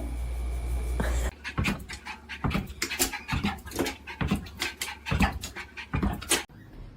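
A dog panting in quick, short breaths for about five seconds, stopping shortly before the end; a steady low hum comes before it in the first second.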